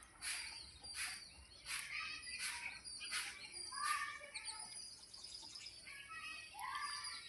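Birds chirping: a sharp call repeated about every three-quarters of a second through the first four seconds, mixed with other short chirps and a couple of brief whistled notes, over a faint steady hiss.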